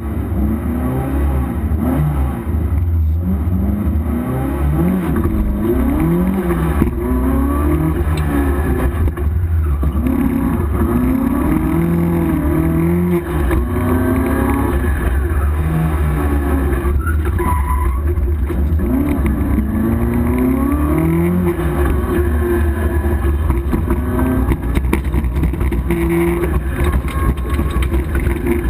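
Opel Manta GTE rally car's four-cylinder engine heard from inside the cabin at full stage pace, revs climbing and dropping over and over with the gear changes and braking.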